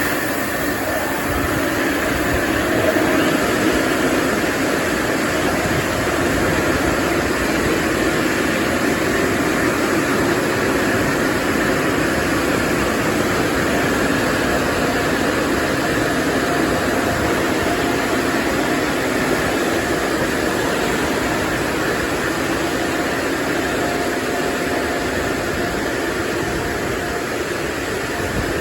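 LaserWash 360 automatic car wash air-dryer blowers running steadily, a loud rush of air with a low hum.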